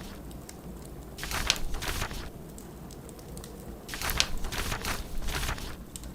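Layered cabin ambience of a steady low snowstorm wind and a fireplace, with two dry rustling, crackling bursts about a second long each, one a little over a second in and another about four seconds in.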